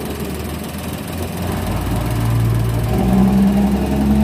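Toyota Wigo's small petrol engine running, its note rising and growing louder about two seconds in and then holding steady. The engine has a stored ignition-coil misfire code.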